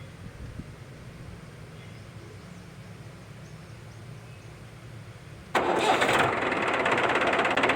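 A small tractor's motor starts suddenly about five and a half seconds in and keeps running with a fast, rattling rhythm, after a low steady hum.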